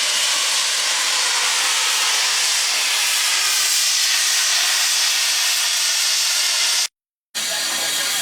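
Steam locomotive venting steam: a loud, steady hiss that starts abruptly. It breaks off about seven seconds in and comes back half a second later.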